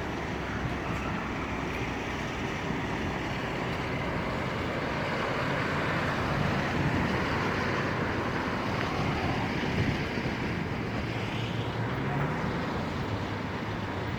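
Strong storm wind rushing and buffeting the microphone in steady noise, with road traffic underneath. A low hum comes in near the end.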